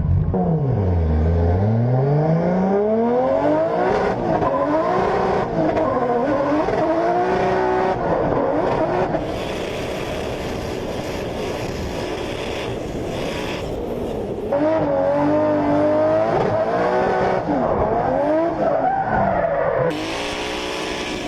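Drift car's engine revving hard, its pitch rising and falling again and again, with tyre squeal. The sound drops and comes back abruptly a few times.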